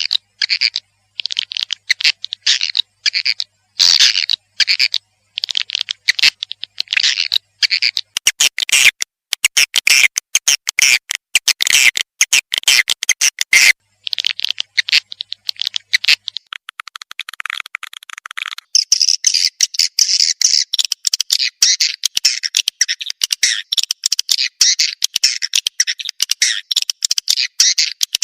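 Swiftlet lure recording of the kind played to call swiftlets to a nesting house: dense trains of rapid high chirps and clicks. About 16 seconds in it turns into a continuous fast chittering.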